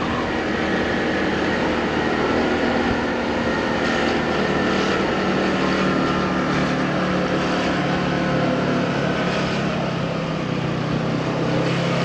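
Motorcycle engine running steadily while riding along, with wind and road noise. Its low engine note grows stronger about halfway through.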